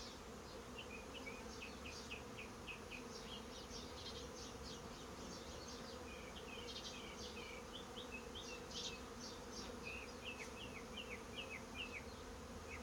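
Honey bees humming steadily around an opened hive. Runs of short, high chirps sound over the hum.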